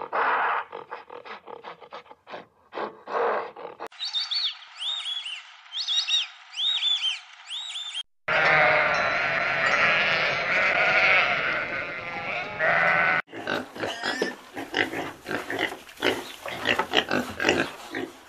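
A run of different animal sound clips, cut one after another: short grunts at first, then a stretch of repeated chirping calls, then a dense chorus of farm-animal calls, then a rapid series of grunts.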